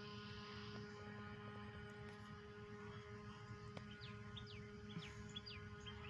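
Faint steady hum with a light hiss that fades in the first second; from about halfway through, small birds give a run of short, high chirps.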